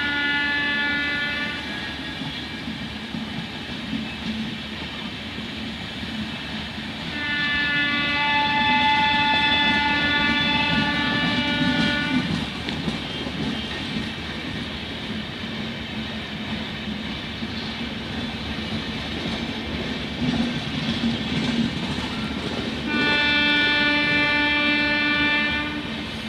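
Prayagraj Express locomotive horn sounding three times: a blast ending about a second and a half in, a long blast of about five seconds near the middle, and another of about three seconds near the end. Between the blasts the train rumbles and clatters steadily along the rails.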